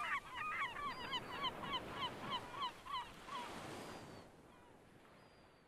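A bird calling in a quick run of about eleven rising-and-falling notes, roughly three a second, over a faint wash of background noise; the calls stop after about three seconds and the sound fades out soon after.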